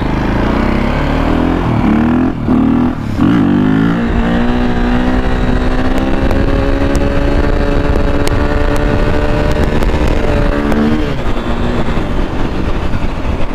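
KTM 450 EXC supermoto's single-cylinder four-stroke engine revving up in steps through the gears, then held at a steady high pitch for several seconds, likely for a wheelie, before the throttle closes near the end. Wind rushes over the microphone throughout.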